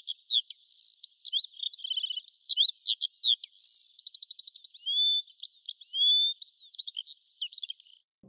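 Bird song: a quick, varied run of high chirps, whistled glides and fast trills, thin with no low end, stopping abruptly just before the end.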